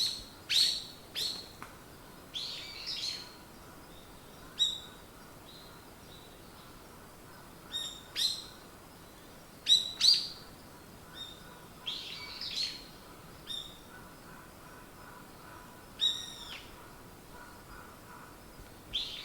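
Songbirds chirping: short, sharp, high calls that sweep downward, coming irregularly a second or two apart, some in quick pairs. A faint steady hiss lies underneath.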